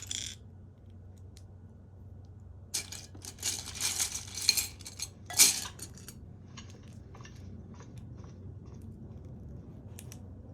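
Small hard objects clinking and clattering: a dense run of rattling clicks from about three to six seconds in, the loudest near the end of that run, then scattered lighter clicks.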